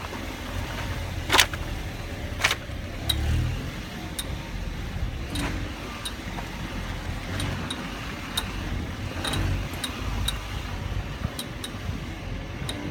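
Car engine running with short throttle stabs, giving a sharp knock on sudden acceleration. The two loudest knocks come a little over a second in and about a second later, with lighter clicks throughout. The owner does not know the cause of the knock.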